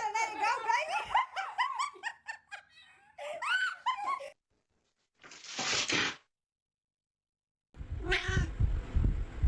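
Cat or cats meowing and yowling in a rapid string of short calls, followed about five seconds in by a short burst of noise, then a brief silence before a new clip with low rumble and another call.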